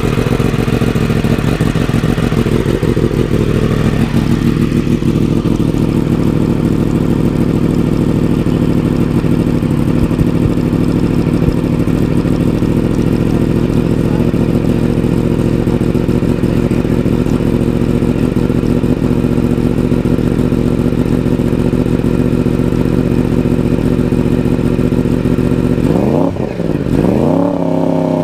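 Yamaha R1's inline-four engine running through a newly fitted Hindle carbon-fiber full-system exhaust on its first start, idling steadily. Near the end the revs dip, then rise and hold higher.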